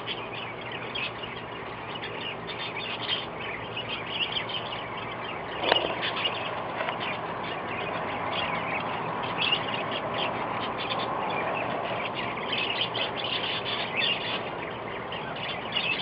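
Backyard birds chirping and calling, many short chirps overlapping over a steady background hiss, with one brief louder sound about six seconds in.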